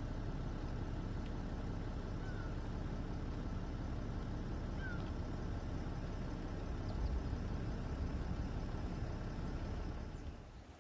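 A steady low engine-like rumble that runs evenly and fades out near the end, with two faint short chirps about two and five seconds in.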